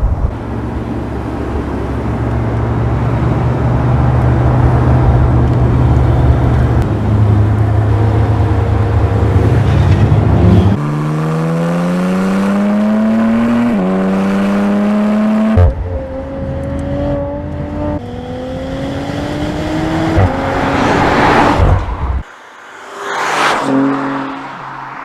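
Twin-turbo six-cylinder performance car engine running at a steady low note, then accelerating hard with its pitch rising through about four quick upshifts. Near the end the engine note drops away suddenly and a whoosh follows.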